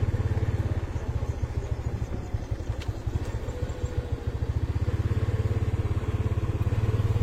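Motorcycle engine running at low speed with a rapid, even putter; it eases off for a couple of seconds partway through, then picks up again.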